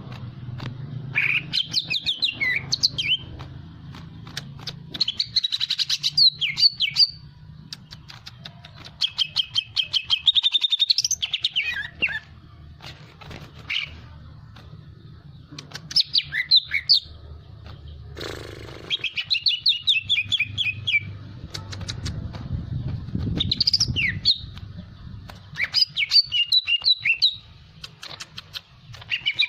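Cucak ijo (green leafbird) singing in an agitated, hyperactive state: loud bursts of rapid chattering, whistled and trilled phrases every couple of seconds, with sharp clicks between them and a low hum underneath. This is the excited song bird keepers play to provoke other birds into singing.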